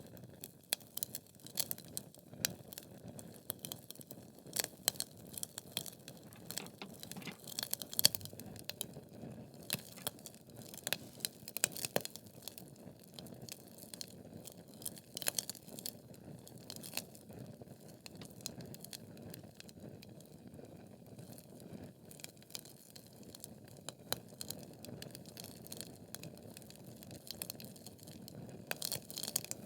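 Wood logs burning in a fireplace: a low steady hiss of flame with irregular sharp crackles and pops, the loudest pop about 8 seconds in and a busy cluster near the end.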